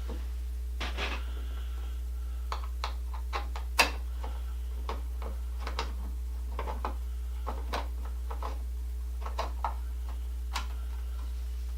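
Irregular small clicks and taps of hand tools and exercise-bike parts being handled during assembly, with one sharper knock about four seconds in, over a steady low hum.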